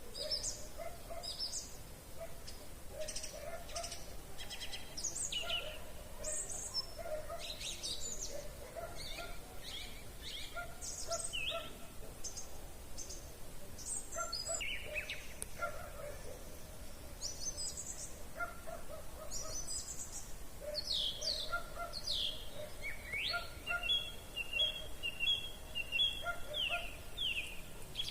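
Chorus of several wild songbirds singing and calling: many short high chirps and whistled phrases overlapping, over a lower note that repeats again and again. Near the end comes a quick run of even, repeated whistled notes.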